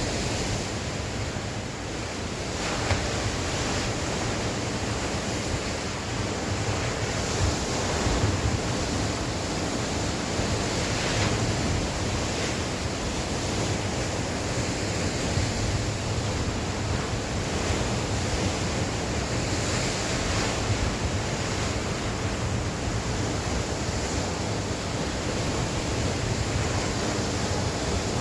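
Sea waves breaking and washing on the shore in a steady surge, with wind buffeting the microphone.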